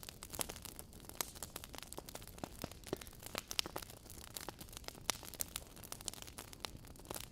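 Wood fire of burning logs in a fireplace crackling steadily, with many small irregular pops and snaps over a soft hiss.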